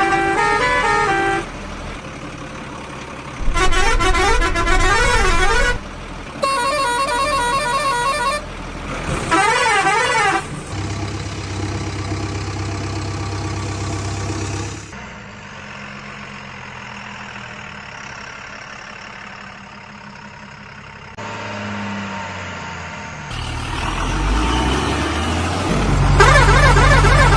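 A string of vehicle sound effects: horn blasts and warbling, wavering siren-like tones in short bursts, then a steady engine hum that grows louder near the end, with warbling tones returning.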